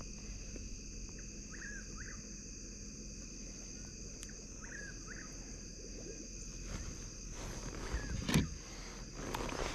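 Steady, high-pitched chorus of insects, with two short chirping calls in the first half and a sharp knock near the end.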